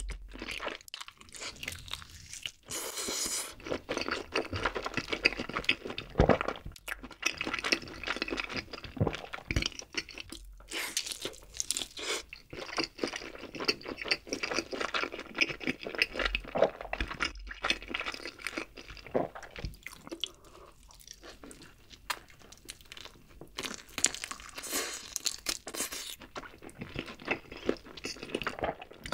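Close-miked eating of a Jamaican-style grilled whole chicken leg: biting into the glazed meat and chewing it with dense, irregular crunches and crackles. There is a quieter stretch about two-thirds of the way through.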